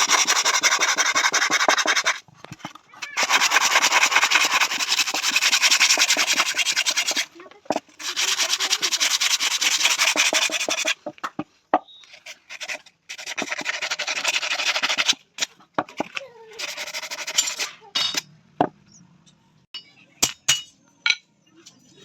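Steel being worked by hand with an abrasive, with fast rasping back-and-forth strokes in bouts of a few seconds separated by short pauses. The rasping thins out about two-thirds of the way in, giving way to scattered clicks and light taps.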